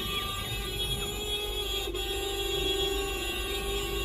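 A vehicle horn held down in one long, steady blast.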